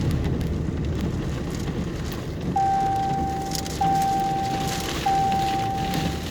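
Vehicle running, heard inside the cab, with a steady low rumble and a crackly hiss from the storm. From about two and a half seconds in, a steady electronic warning tone beeps four times, each beep a little over a second long with only short gaps between.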